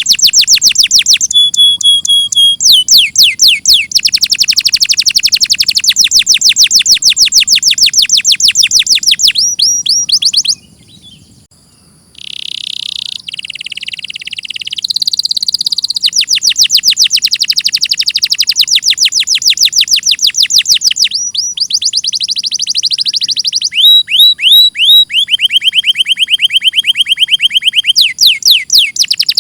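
Domestic canary singing: long trills and rolls of fast, rapidly repeated high notes. There is a brief pause about ten seconds in, then a short noisy, buzzy phrase before the trills resume.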